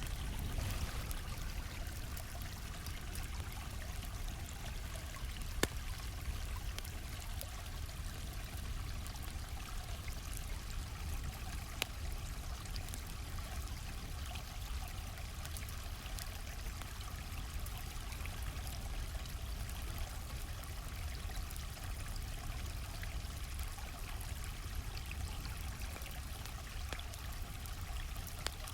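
A flowing stream runs steadily, with a campfire crackling over it. The fire gives two sharp pops, about six and twelve seconds in.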